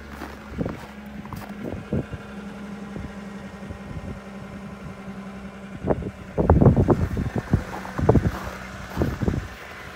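2007 Lexus ES350's 3.5-litre V6 idling steadily shortly after a cold start. From about six seconds in, loud irregular buffeting on the microphone lasts about three seconds and partly covers the engine.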